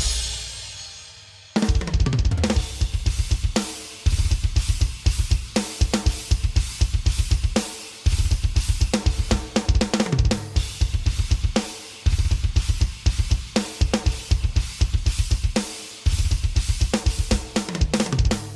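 Drum-and-beat music: a cymbal decays at the start, then a repeating kit pattern of kick, snare and hi-hat over deep bass, broken by short pauses about every four seconds. It dies away right at the end. This is program audio passed through Dolby-A noise-reduction encoding and decoding.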